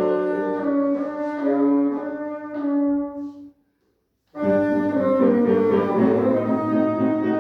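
Bassoon playing sustained melodic notes over piano accompaniment. About three and a half seconds in, the sound cuts off to total silence for under a second, then the music resumes at full level.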